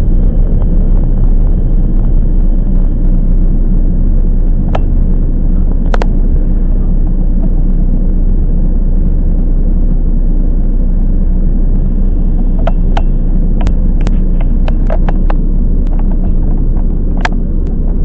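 Toyama Chiho Railway 10030 series electric train running along the line, heard from inside the car: a loud, steady rumble of wheels on rail. Sharp clicks come about five and six seconds in, and a cluster of them falls in the last third.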